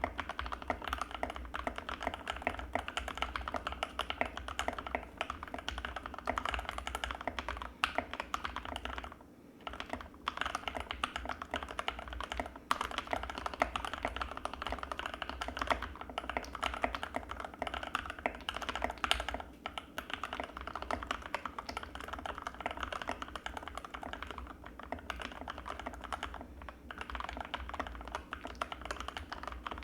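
Anne Pro 2 mechanical keyboard with Gateron Red linear switches being typed on quickly and continuously, a dense stream of key clicks with a short pause about a third of the way in.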